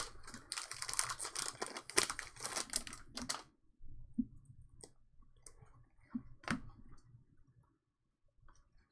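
Trading cards being handled while a pack is opened: dense crinkly clicking for the first three and a half seconds, then a few scattered light clicks of card stock.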